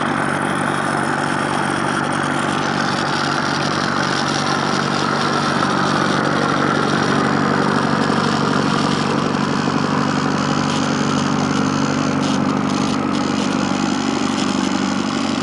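A motor running steadily, with no change in speed.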